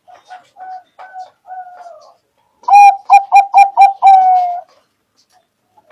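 Zebra dove (perkutut) singing: soft coos at first, then about halfway through a loud run of about six quick staccato coos ending in one longer drawn-out note.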